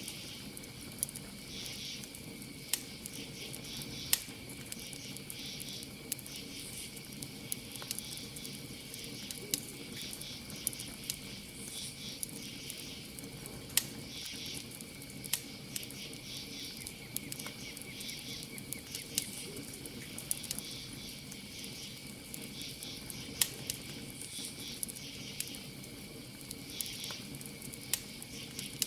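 Campfire crackling, with sharp pops every second or two, over a steady high cricket trill and insects chirping in short repeating bursts.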